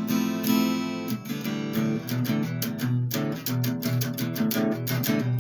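Guitar strumming a steady rhythm in a song's instrumental passage, with no singing.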